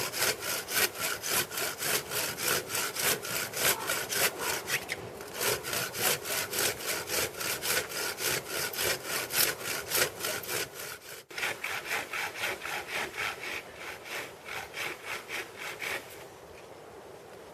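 Hand saw cutting into the trunk of a dry, standing dead pine with rapid, even back-and-forth strokes: a felling cut on the side the tree leans toward. It breaks off briefly twice and stops shortly before the end.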